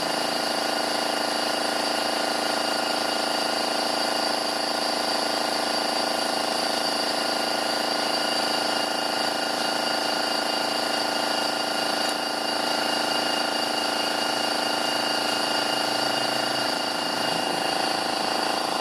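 Engine running at a steady, unchanging speed: a constant hum with a steady whine over it.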